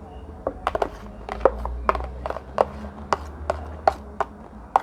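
Cutlery clinking against a plate during a meal: about a dozen sharp, irregular taps, each ringing briefly.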